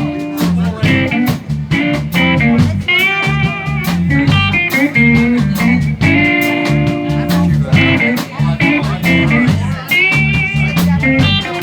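Live blues band playing an instrumental passage: electric guitar lead with bent notes over bass and a steady drum beat.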